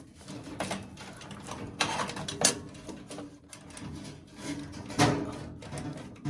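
Metal parts of a gas water heater's burner assembly being handled and fitted into place: scattered clicks and scrapes with a few sharp knocks, about two seconds in, two and a half seconds in and five seconds in.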